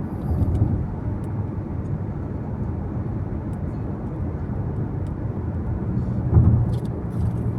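Car driving on the road: a steady low rumble of tyres and engine heard from inside the cabin, swelling briefly louder about six seconds in.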